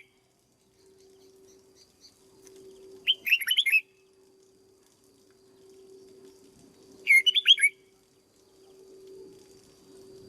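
Red-whiskered bulbul singing two short, quick phrases of bright chirping notes, about four seconds apart, over a faint steady hum.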